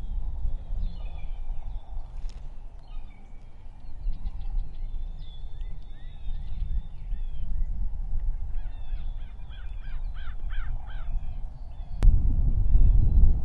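Wild birds calling and singing, with a run of five or six repeated calls near the end, over a steady low rumble. A sharp click comes about twelve seconds in, and the rumble is louder after it.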